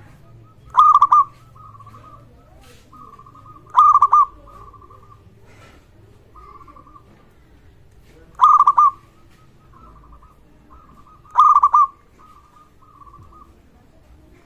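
Zebra dove (perkutut) cooing. Four loud, rolling coos come about every three to four seconds, with fainter trilled coo phrases in between.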